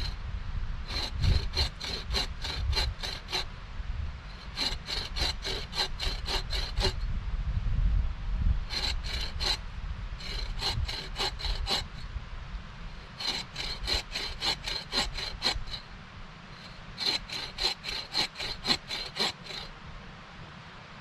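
Hand saw cutting through wood in six bouts of quick back-and-forth strokes, about four strokes a second, with short pauses between bouts.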